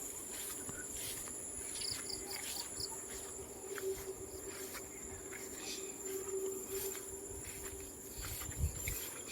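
Insects trilling steadily at a high pitch in a farm field, with a few short faint chirps about two to three seconds in.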